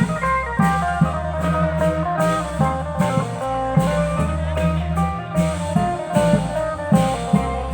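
Music: a fast plucked-string melody over a bass line and a steady drum beat.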